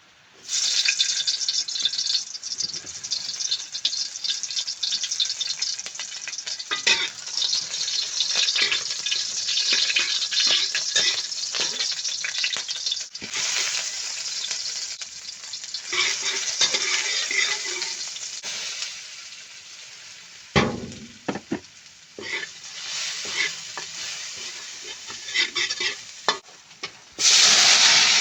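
Food sizzling in hot oil in a pan while being stirred, the sizzle starting abruptly about half a second in. Many short scrapes and a few knocks run through it, with a quieter stretch past the middle and a sharp loud burst of sizzling near the end.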